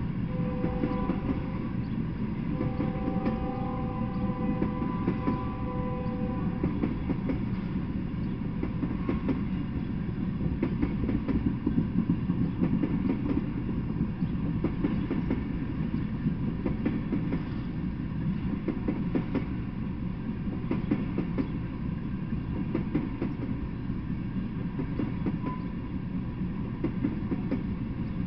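Freight train of tank cars rolling past: a steady rumble of wheels on rails with irregular clicking and clacking. Near the start a chord of steady tones sounds twice, first briefly, then for about four seconds.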